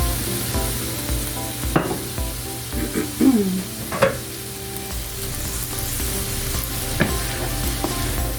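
Vegetables sizzling as they are stir-fried in a pot. A utensil knocks and scrapes against the pot every so often, with a short falling squeak about three seconds in.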